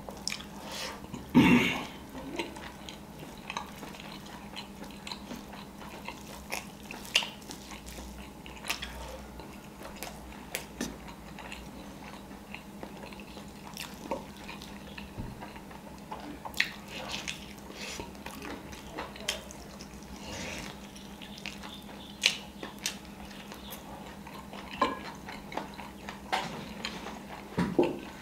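Close-miked eating sounds: a person chewing biryani, with scattered wet clicks and crunches and fingers working rice on a tray. There is one louder knock about a second and a half in, over a faint steady hum.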